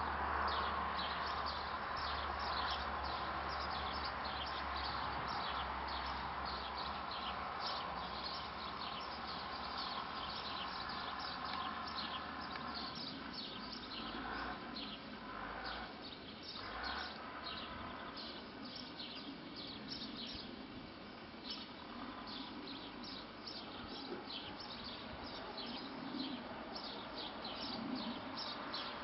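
Many birds chirping and singing, a dense run of short calls, over a low steady hum that stops about halfway through.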